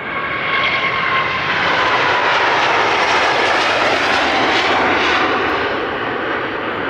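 Airbus A350-900's Rolls-Royce Trent XWB turbofans at takeoff power as the jet passes by: a loud jet roar that swells to a peak about halfway through and eases slightly near the end, with whining tones that slide slightly down in pitch.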